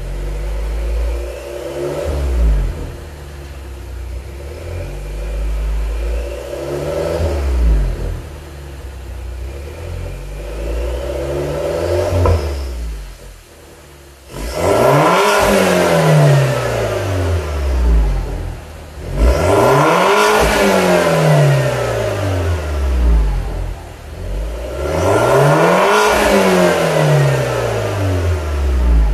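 BMW F20 120i's N13 1.6-litre turbocharged four-cylinder revving through an aftermarket transverse muffler with single left and right outlets. Three short blips come first, then three long revs that climb high and fall back, a few seconds apart.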